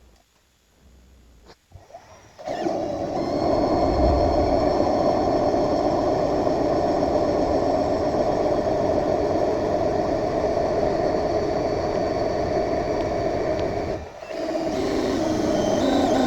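Metal lathe starting up and running steadily, a machine hum with several fixed whining tones, as it turns a steel taper. Near the end the sound drops out briefly and comes back with a slightly changed pitch.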